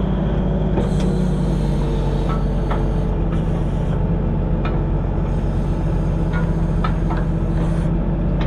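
Heavy diesel engine running steadily at a constant speed, with a scattering of short, sharp metallic clicks and knocks over it.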